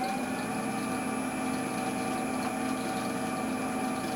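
Record Power CL4 woodturning lathe running steadily at about 840 rpm, its 1 hp motor on an inverter variable-speed drive, giving an even hum with a few steady whining tones.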